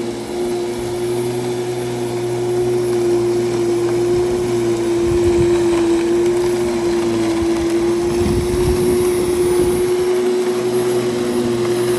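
Electric lawn mower running at a steady high motor whine. It holds one pitch throughout, dipping slightly while it cuts grass, with a couple of low bumps about five and eight and a half seconds in.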